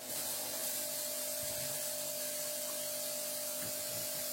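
400-watt mini fog machine switched on and firing: a steady hiss of fog jetting out over a steady electric buzz. It cuts in suddenly at the start and runs evenly, the machine working and kicking out fog after a fault was fixed.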